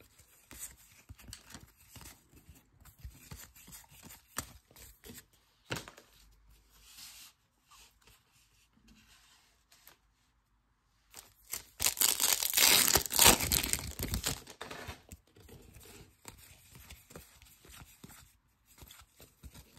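A baseball card pack wrapper being torn open and crinkled, loudest for about three seconds a little past the middle, with faint rustles and clicks before and after.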